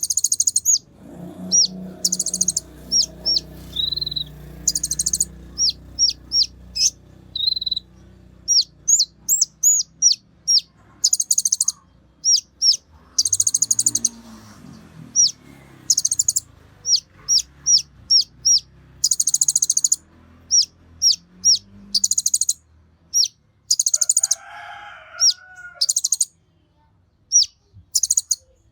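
A konin songbird singing: rapid series of high, sharp chirps alternating with short buzzy trills, repeated in quick bursts, with fainter low cluck-like sounds underneath.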